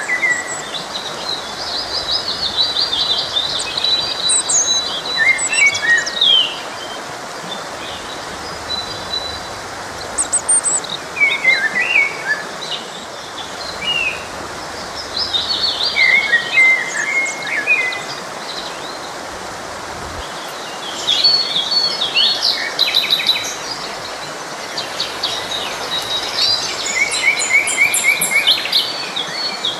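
Songbirds singing in short, varied chirping phrases every few seconds, over the steady rush of a flowing forest stream.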